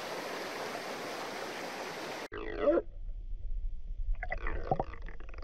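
Rushing water of a mountain stream or waterfall, cut off abruptly about two seconds in. It gives way to a low hum with a few short, gliding whines.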